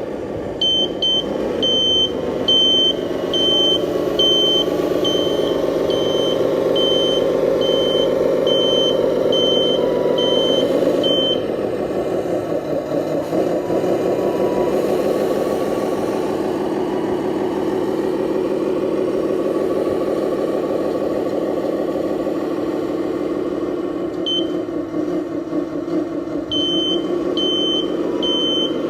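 RC Scania dump truck's engine sound running steadily, its note dropping a little about eleven seconds in, with a high reversing beeper sounding about every 0.6 s for the first eleven seconds and again near the end.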